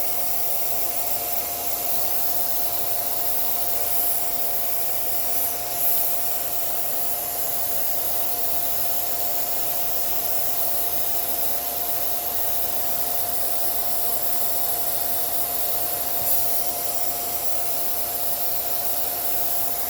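Small vacuum cleaner running steadily with a constant whine, sucking dust out of a sewing machine, with a few brief surges as the nozzle works over the parts.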